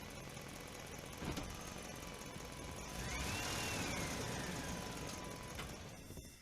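A vehicle engine running with a steady rumble, with a click about a second in and a whine that rises and then falls from about three seconds in. It cuts off suddenly at the end.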